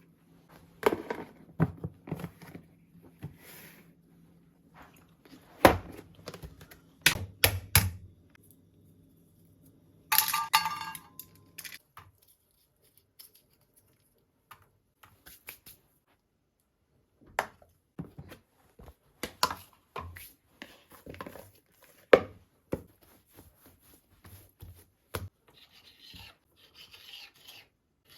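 Scattered knocks, taps and handling noises of things being picked up and set down, with a brief rustling, tearing noise about ten seconds in and a quiet stretch after it.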